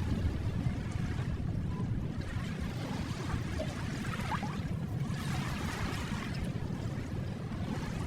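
Ocean waves washing onto a shore over a steady low rumble of surf, with one wave surging in and receding a little past the middle.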